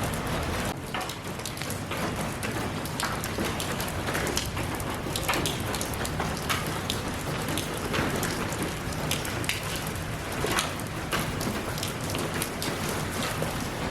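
Steady rainfall, a dense even hiss with many distinct close drops tapping on a surface.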